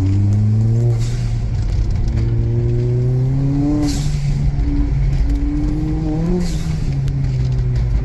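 Big-turbo Ford Fiesta engine heard from inside the car under hard acceleration, its note climbing and then dropping sharply three times as the throttle comes off or a gear changes. A brief hiss comes at each drop.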